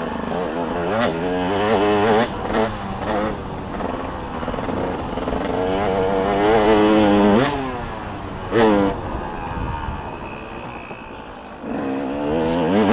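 Motocross dirt bikes revving on the track, engine pitch climbing and falling again and again as the throttle is worked. One rev ends in a sharp drop about seven and a half seconds in, followed by a short loud blip.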